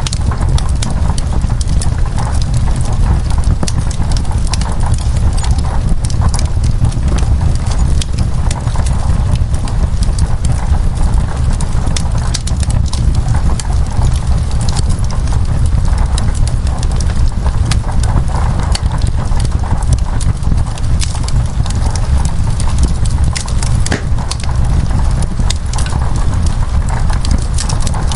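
Wood fire crackling in a fireplace, irregular sharp pops and ticks over a steady low rumble, with rain falling on window glass.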